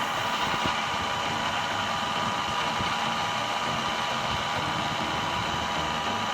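A machine running steadily, a continuous even mechanical noise with faint steady tones.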